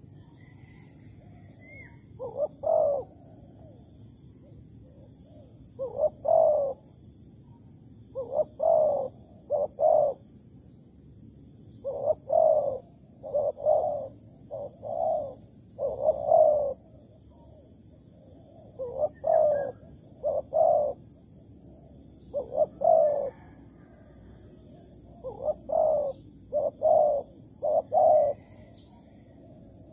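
Spotted dove cooing in repeated phrases of two to four short, low coos, a new phrase every few seconds: the call of a Malaysian-strain decoy dove used to lure wild spotted doves into a trap.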